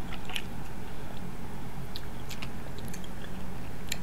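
A person chewing snow crab meat close to the microphone, with scattered short, sharp clicks as pieces of crab leg shell are handled.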